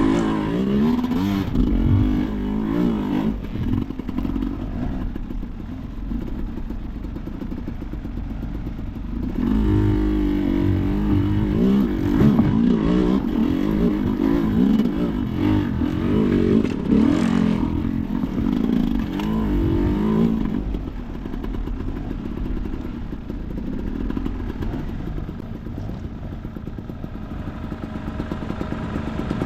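Enduro motorcycle engine revving up and down in throttle bursts, working hardest in the first few seconds and again from about ten to twenty seconds in, easing off in between and toward the end.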